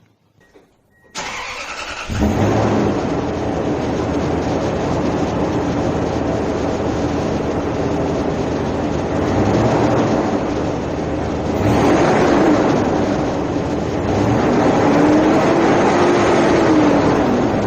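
A 2004 Toyota Tundra's 4.7-litre V8 heard at the exhaust with the stock muffler still fitted. It starts about a second in, then settles to a steady idle. It is revved up and back down a few times, the longest near the end.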